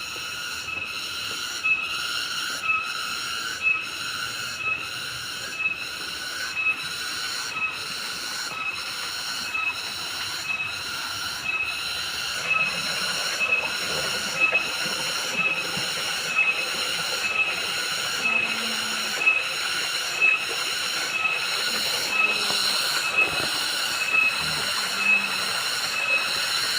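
Jungle cicadas singing in a loud, shrill chorus that pulses evenly about twice a second.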